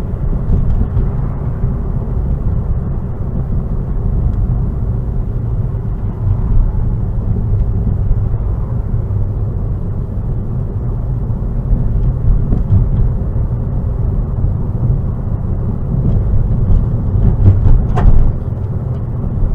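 Steady low rumble of a car's engine and tyres on the road, heard from inside the moving car, with a short sharp click near the end.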